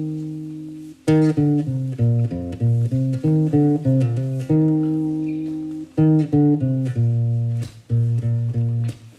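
Guitar playing a slow plucked intro figure, low notes ringing out between short runs of higher notes. The phrase breaks off and starts again about a second in and again about six seconds in.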